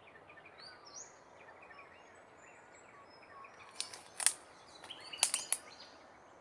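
Faint bird chirps in the background over quiet outdoor ambience, broken by a few sharp clicks: two about four seconds in and a quick cluster just after five seconds. The clicks are the loudest thing, like handling of the camera on its tripod.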